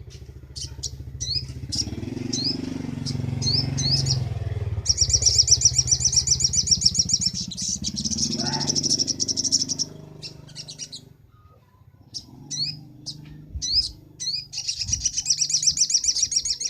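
Sogok ontong (little spiderhunter) singing: a string of short, high, rising chirps, then a fast high trill lasting about five seconds. More chirps follow, and a second trill starts near the end.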